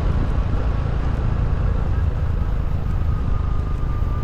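Steady vehicle rumble with road and wind noise while travelling, with a faint whine that slowly falls in pitch in the second half.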